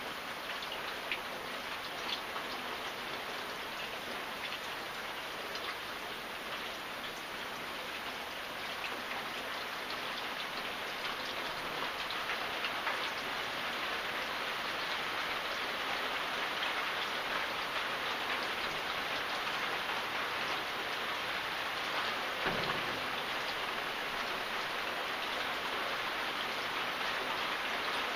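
Steady rain falling, an even patter with scattered sharper drop ticks, getting a little heavier about halfway through. A brief low thump comes near the end.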